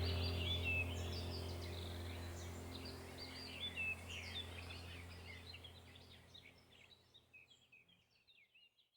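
Many birds chirping and twittering over a low steady hum. Both fade out gradually to silence about two-thirds of the way through.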